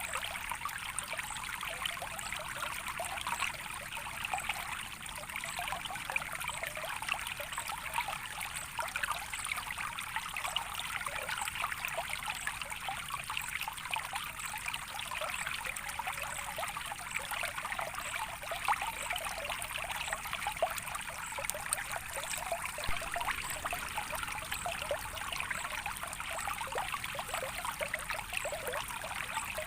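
Soft running water trickling steadily, with a dense patter of small splashes and no pauses.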